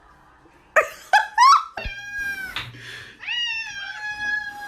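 Domestic cats meowing loudly: three short, sharp cries about a second in, then two long, drawn-out meows held at a steady pitch.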